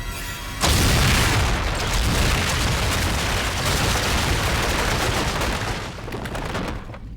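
Cartoon explosion sound effect: a sudden loud blast about half a second in, then several seconds of rushing, crackling blast noise that fades out near the end.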